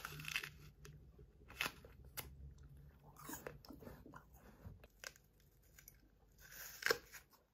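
A person biting into and chewing an apple: faint, irregular crunches, with the loudest bite near the end.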